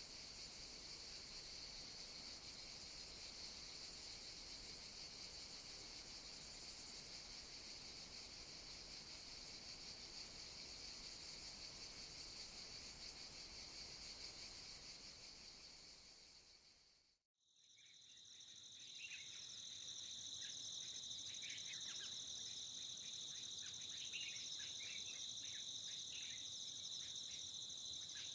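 Steady insect chorus, a dense high chirring, that fades out about two-thirds of the way through. After a moment of silence a second high insect chorus fades in, with scattered short chirps over it.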